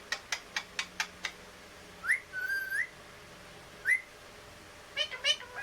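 A pet parrot making a quick run of sharp clicks, then several short whistles that rise in pitch. The longest whistle, a little over half a second, comes about two seconds in, and a few quick chirps follow near the end.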